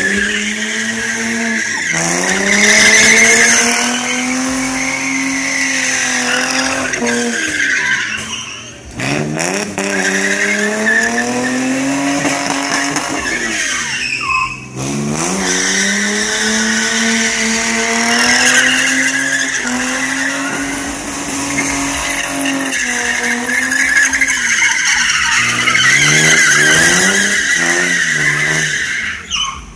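Car engine revving hard with its tyres squealing continuously. The revs drop off twice, about eight and fourteen seconds in, and climb again each time, as in a burnout or drifting.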